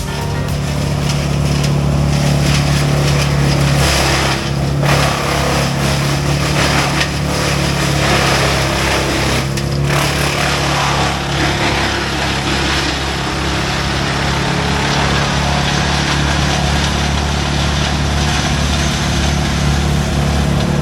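Heavy diesel machinery running steadily with a constant low hum, and a rushing noise on top that swells and dips between about four and twelve seconds in.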